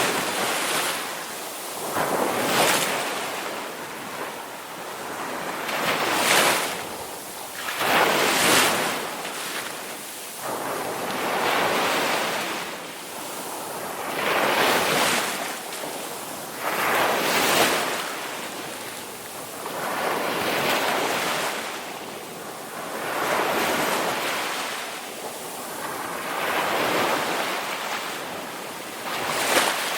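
Ocean waves breaking and washing in, a steady hiss of surf that swells and falls back about every three seconds.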